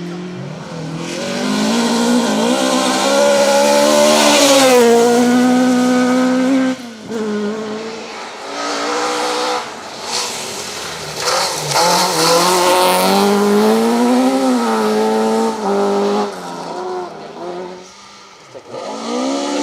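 Ford Escort Mk2 rally car engine revving hard, its pitch climbing and dropping again and again with the gear changes, with spells of tyre noise. The note cuts away sharply about seven seconds in and fades near the end before picking up again.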